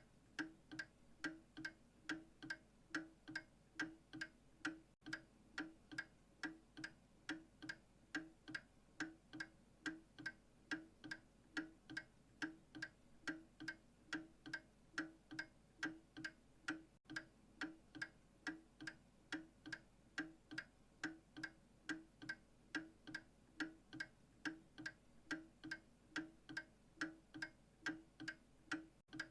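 Clock ticking steadily, about two even ticks a second, alternating slightly in tone like a tick-tock.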